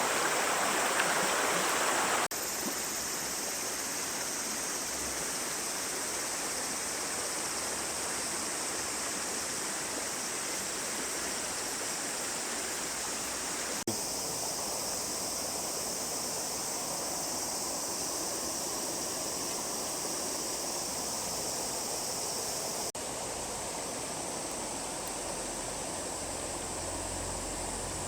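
River water flowing in a steady, even rush. The sound shifts abruptly a few times where the recording cuts.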